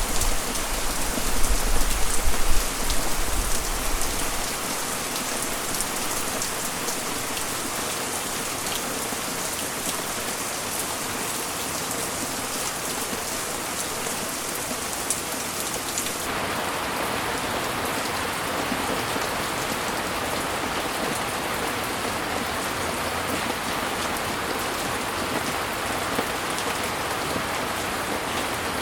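Steady heavy rain falling, a dense even hiss. A low rumble sits under it for the first few seconds, and about halfway through the rain abruptly changes to a duller, less hissy sound.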